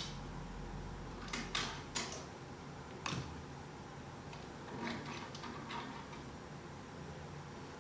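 Sharp metallic clinks and knocks of transmission parts being handled on a workbench. The loudest come in a quick cluster between about one and a half and three seconds in, with a few softer clicks around five seconds in.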